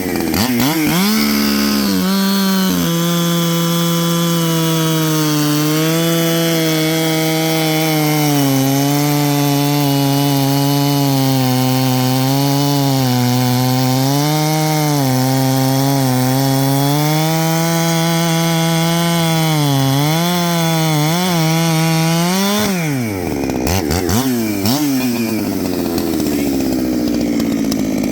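Two-stroke chainsaw cutting wood, its engine held down under load with the pitch sagging and recovering through the cut. Near the end it revs up out of the cut, then winds down.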